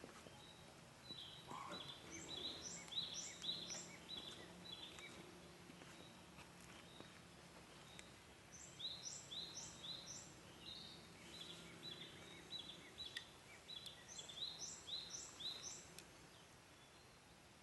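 A bird singing, three phrases of several quick, high repeated notes, over a faint outdoor hiss with a few soft crackles from a small wood fire.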